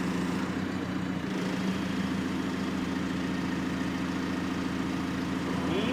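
An engine running at a steady speed, a constant hum with no change in pitch.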